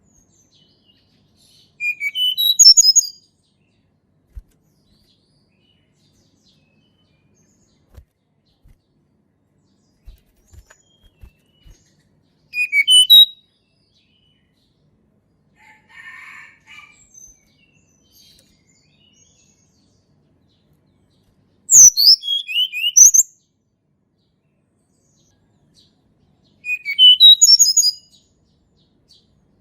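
Tledekan gunung songbird singing four short phrases of high, quick whistled notes, each about a second long and several seconds apart.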